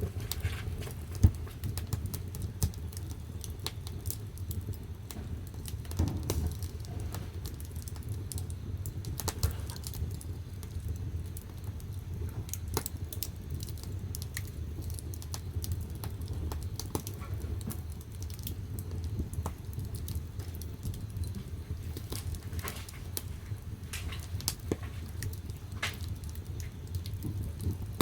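Firewood burning in the firebox of a wood-fired bath heater, crackling with irregular sharp pops over a steady low rumble.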